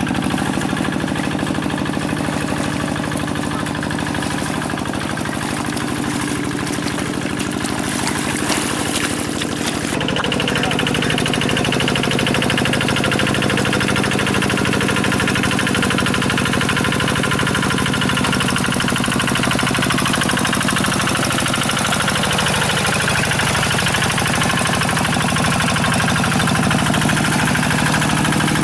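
Quick G1000 tractor's diesel engine running steadily while working in mud, its note changing about ten seconds in and then holding even.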